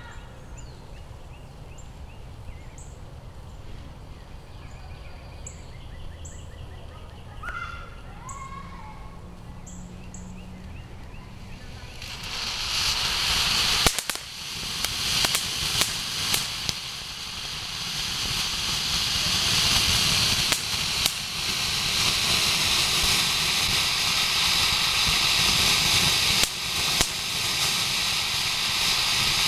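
Homemade black-powder firework fountain catching about twelve seconds in and spraying with a loud, steady hiss that builds, with sharp crackling pops from crackle balls going off through it.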